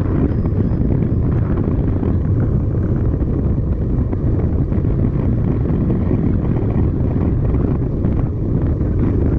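Heavy wind buffeting on the microphone: a steady, loud low rumble without any clear pitch.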